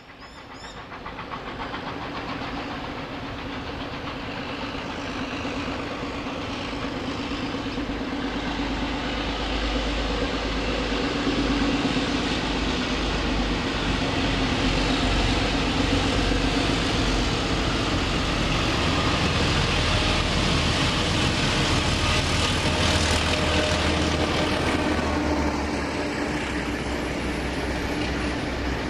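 Steam-hauled train running, growing louder over the first ten seconds or so as it approaches, then holding steady with a continuous rumble and a low hum.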